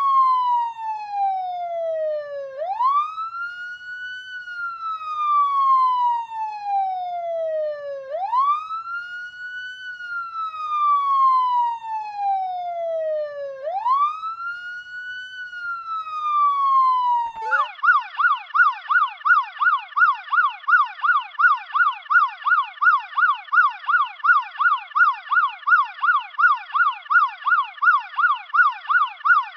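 Electronic police siren in wail mode, rising quickly and falling slowly about every five and a half seconds, then switching about 17 seconds in to the fast yelp, warbling about three times a second.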